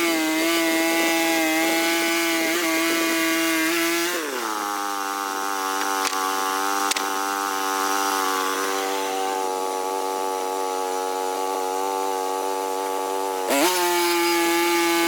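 A small sawmill's engine running at speed. About four seconds in, its pitch drops and stays lower for about nine seconds as it takes the load of a cut, then rises again near the end. A couple of sharp clicks come midway.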